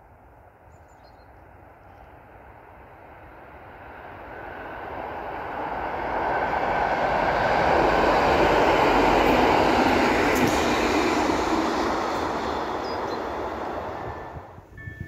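A passenger train passing on the track: its rolling noise swells over several seconds, peaks in the middle, fades, and then cuts off abruptly near the end.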